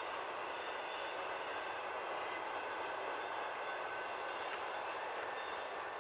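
Double-stack intermodal well cars rolling past, a steady noise of steel wheels on the rails with a few faint, thin high tones over it.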